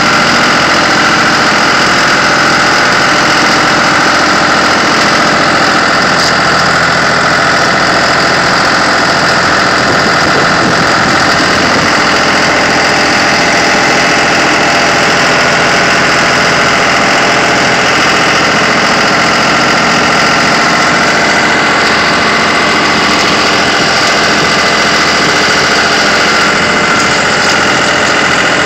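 Tractor engine running steadily and loud, with no change in speed.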